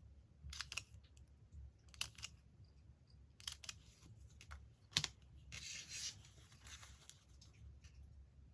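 Magazine paper being cut and handled: a few short, crisp snips a second or so apart, the sharpest about five seconds in, then about a second of papery rustling.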